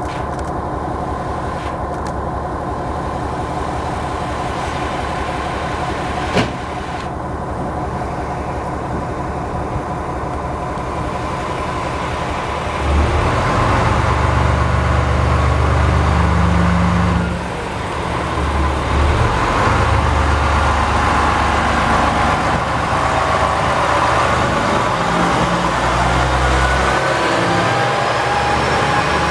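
KiHa 47 diesel railcar's engine idling, with one sharp click about six seconds in. About halfway through, the engine throttles up as the train pulls away, drops back briefly and picks up again, and a rising whine follows as it gathers speed.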